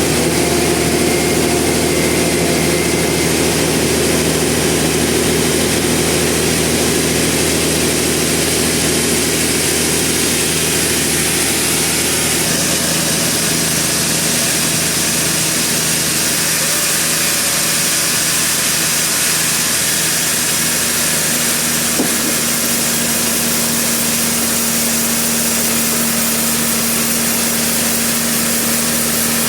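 Sawmill machinery engine running steadily, with a brief click about two-thirds of the way through.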